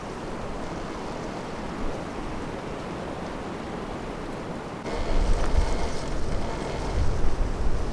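Strong wind blowing in gusts and buffeting the microphone, heavier from about five seconds in.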